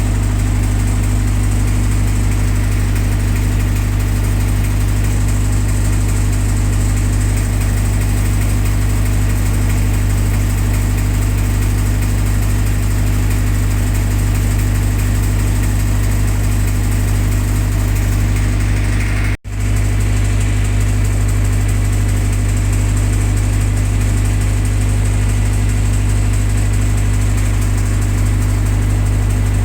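Generator set engine running steadily, a constant low hum that drops out for a split second about two thirds of the way through.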